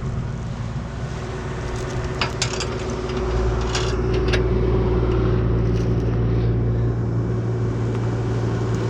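An engine running steadily, growing louder about three seconds in, with a few sharp metallic clicks and clanks around two to four seconds in.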